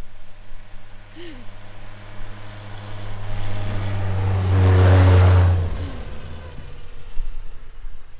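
Volvo C304 truck's engine running, growing steadily louder to a peak about five seconds in and then falling away quickly, as if the truck drives up close and passes.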